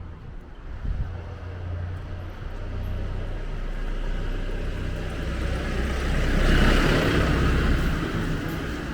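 Street traffic with a steady low engine rumble; a vehicle passes close by, loudest about six to seven seconds in, then fading.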